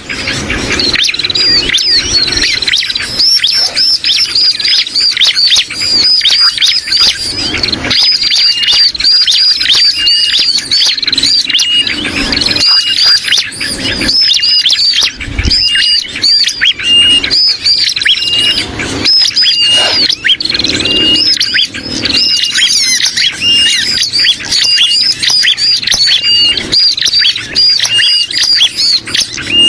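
Bird-lure recording of bar-winged prinia calls layered with agitated and distress calls of sooty-headed bulbuls. It is a dense, continuous stream of rapid high chirps with short repeated whistled notes.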